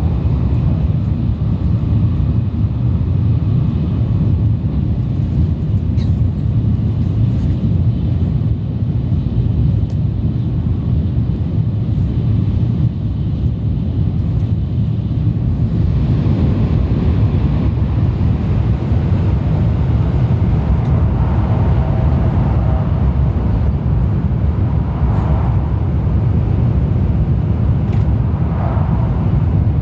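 Steady low rumble of a Sanyo Shinkansen train running at speed, heard from inside the passenger car.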